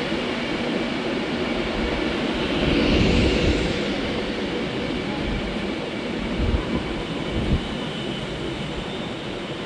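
Class 390 Pendolino electric train in the platform, a steady rumble that swells about three seconds in and then slowly eases, with two short thuds about six and seven and a half seconds in.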